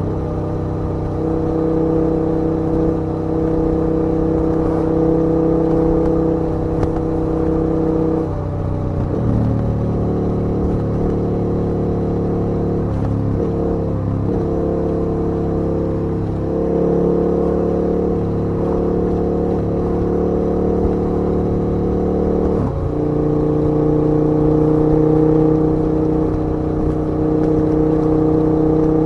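KTM 1290 V-twin motorcycle engine running under way at a steady cruise. Its note shifts abruptly in pitch about a third of the way in, again past the middle, and drops near the end.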